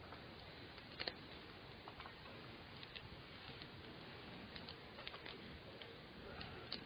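Campfire crackling faintly: a few scattered wood pops and ticks over a low hiss.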